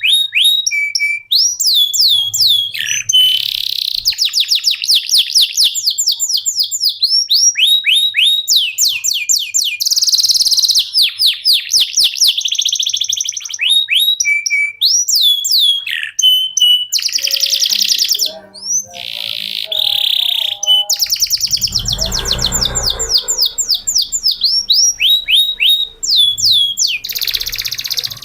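Male domestic canary singing a long, unbroken song: fast runs of repeated falling notes and rolling trills, high-pitched, with no pauses. A brief low rumble comes in about two-thirds of the way through.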